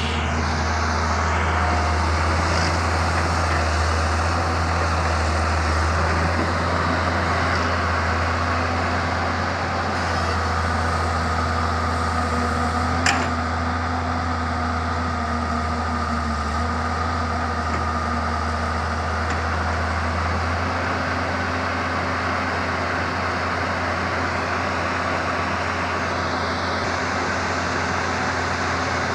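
Samsung excavator's diesel engine running steadily at work, a strong low hum, with a single sharp click about thirteen seconds in.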